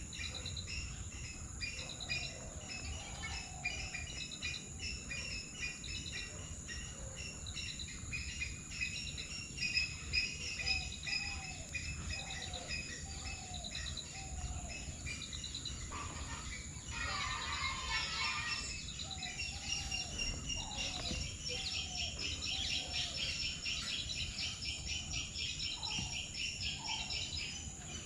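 Several small birds chirping and calling, with rapid high chirps over shorter, lower calls repeated about once a second, and a brief dense burst of chatter a little past the middle. A steady high insect-like drone runs underneath.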